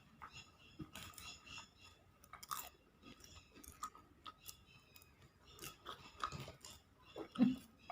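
Popcorn being crunched and chewed without hands: faint, irregular crackles and clicks.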